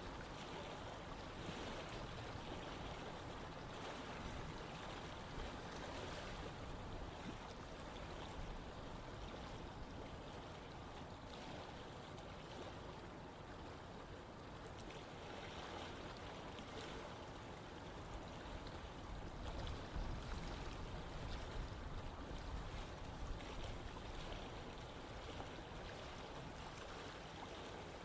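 Running water of a stream or river flowing over rocks, a steady rushing with small splashing variations.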